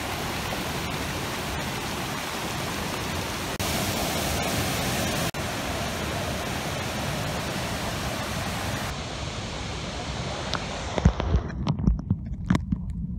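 Steady roar of a large waterfall, an even rushing noise broken by a couple of sudden jumps in level. Near the end the hiss fades and irregular low thuds and knocks take over.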